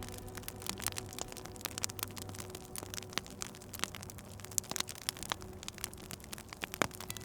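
Fireplace wood fire crackling, with many irregular sharp pops and one louder pop near the end.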